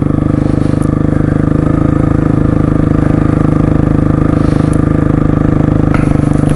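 Honda CRF dual-sport motorcycle's single-cylinder engine running at a steady speed while riding, with no rise or fall in pitch.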